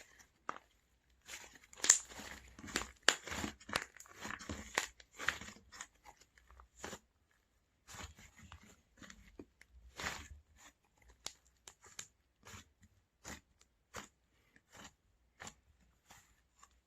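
Oreo slime being squeezed and pressed by hand, crunching and crackling in a dense run of sharp clicks for a few seconds, then single clicks and pops about every half second.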